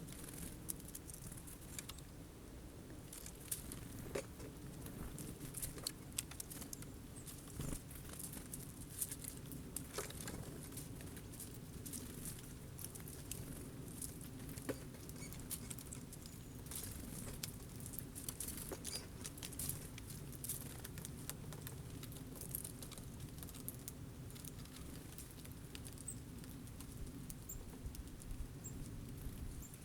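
Irregular light clicks and taps of birds pecking sunflower seeds at a feeder, some in quick runs, over a steady low background rumble.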